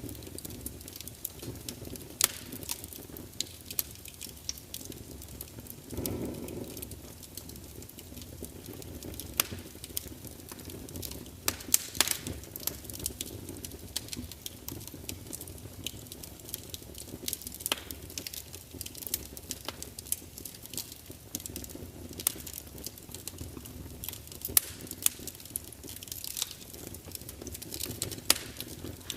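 Wood logs burning in a large fireplace, crackling and spitting: sharp snaps and pops at irregular moments over a low, steady rumble of the flames, which swells briefly about six seconds in.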